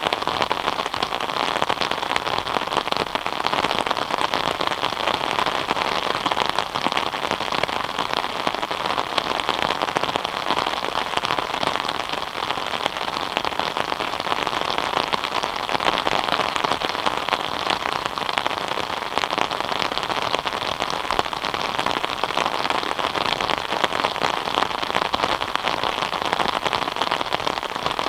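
Steady rain falling, a dense even hiss of many fine drop impacts with no change in strength.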